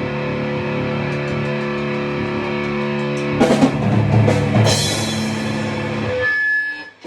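Rock music: a held distorted guitar chord, with a burst of drum and cymbal hits about halfway through. The music dies away sharply near the end.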